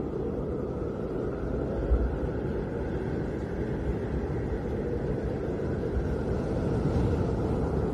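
Snowstorm wind giving a steady low rushing roar, with a fainter higher whistle over it. There is a brief low thud about two seconds in.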